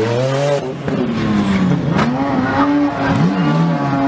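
Car engine revving hard, its pitch rising and falling several times, then held high for the last second and a half, with one sharp click about two seconds in.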